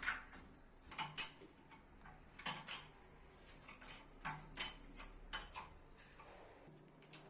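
Scattered sharp clicks and light knocks from hand work on a water cooler's plumbing fittings, coming in small groups of two or three, over a faint steady hum.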